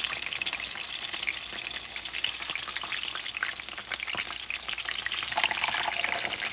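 Battered chicken sandwich frying in a pan after being flipped, a steady dense sizzle and crackle.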